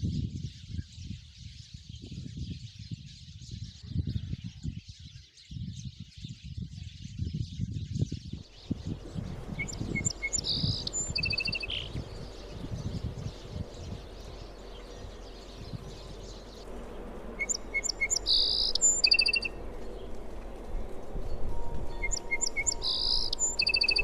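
Sparrows: a flock chattering continuously with low thumps in the background. About eight seconds in, it changes to a single bird repeating a short, varied song phrase three times, several seconds apart.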